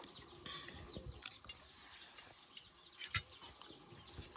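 Small birds chirping steadily, many short falling chirps in quick succession, with a sharp click about three seconds in.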